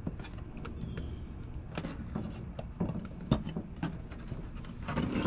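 Scattered light clicks and knocks over a low steady hum.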